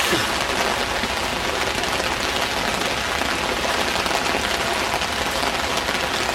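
Steady, unbroken hiss of water with no let-up, from rain or floodwater, on a campsite that is flooding.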